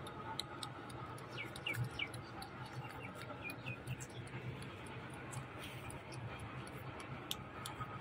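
A few short, high chirps from small birds in two quick runs, about one and a half and three seconds in, among scattered light ticks and clicks over a low steady hum.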